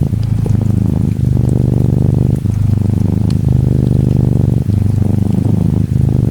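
Norwegian Forest Cat kitten purring close up, a rapid low rumble that breaks briefly about once a second as the cat breathes in and out. Faint rain ticks lightly behind it.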